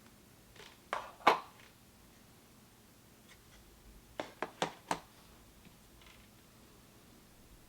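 Light clicks and knocks of computer parts being handled and fitted: two close together about a second in, the second the loudest, then a quick run of four near the middle.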